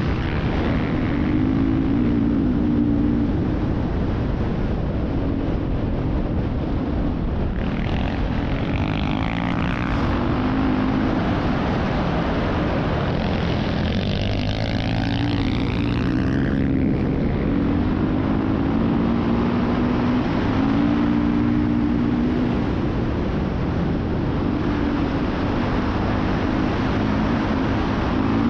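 Off-road motorcycle engine running and revving up and down as it rides through sand, with heavy wind rush on the microphone.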